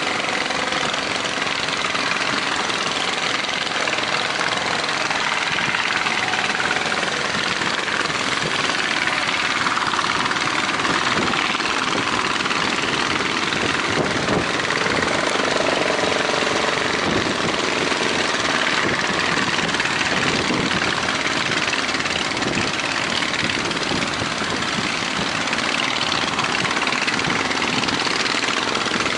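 Motors of fishing boats running steadily together as the boats head out to sea, a dense, unbroken engine noise.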